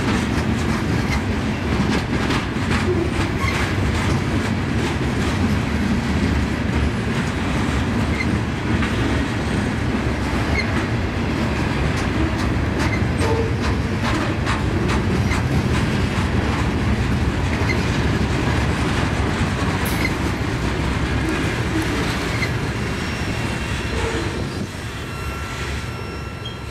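Herzog ballast hopper cars of a rock train rolling past: a steady rumble with the clickety-clack of the wheels and a faint wheel squeal. The sound fades near the end as the last car goes by.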